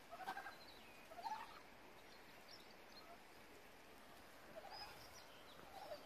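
Faint bird calls: a few short, scattered chirps over a quiet outdoor hush.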